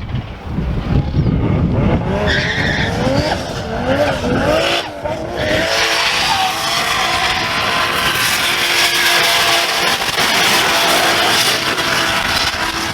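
Drift car at full throttle: the engine revs up and down for a few seconds, then the tires squeal in a long, continuous slide.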